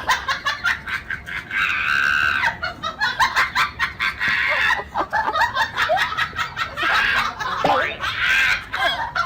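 People laughing and shrieking in choppy bursts, with several higher shrieks about two, four and eight seconds in.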